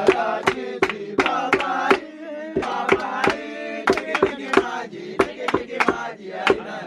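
Pestle pounding coffee beans in a mortar, with sharp thuds at about two to three a second, while a group chants and sings in time with the strokes.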